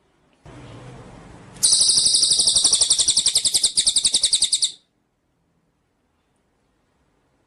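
Songbird recording: after a faint hiss, a loud, rapid, high-pitched trill of quickly repeated notes for about three seconds, cutting off abruptly, then silence.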